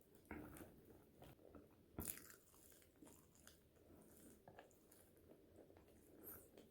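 Faint, close-miked biting and chewing of french fries, with short crunches and a sharper crunch about two seconds in.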